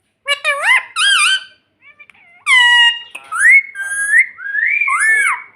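Ring-necked parakeet giving a run of shrill whistled calls. Short rising and swooping calls come first, then longer wavering calls through the second half.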